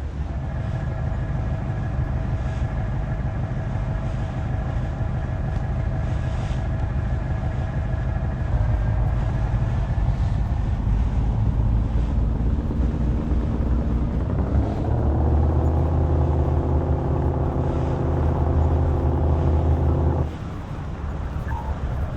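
Truck engine running, its pitch climbing about two-thirds of the way through as it revs or picks up speed, then held steady and louder before dropping off suddenly near the end.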